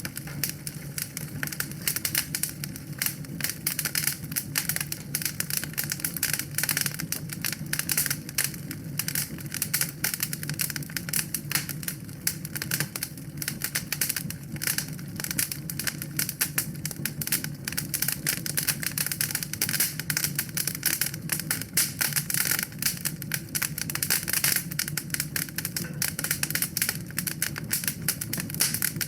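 Wood fire in a fireplace crackling: a dense, irregular run of small pops and snaps over a steady low rumble.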